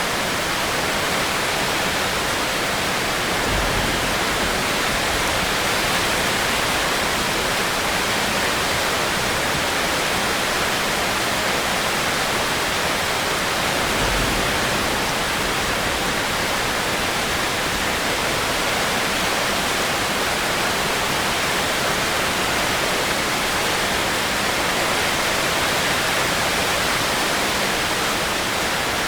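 Steady heavy rain, an even hiss without breaks, with a short low rumble twice.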